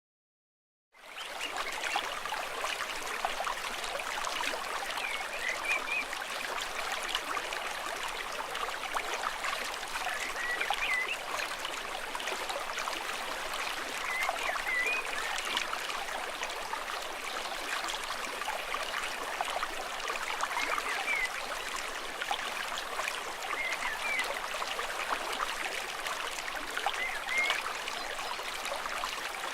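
A stream trickling steadily, with small bright plinks now and then. It fades in about a second in.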